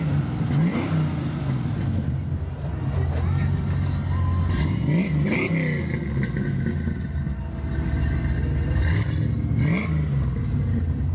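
Ford 5.0 V8 from a 1991 Mustang, swapped into a Mazda RX-7 GSL-SE, idling and revved in quick blips of the throttle several times, each rising and falling back to idle.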